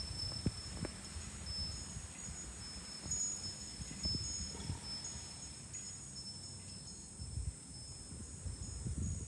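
Fūrin (Japanese wind chime) tinkling in the breeze, a few strikes followed by high, clear tones that ring on and fade. Gusts of wind buffet the microphone, and a steady high hum of cicadas runs underneath.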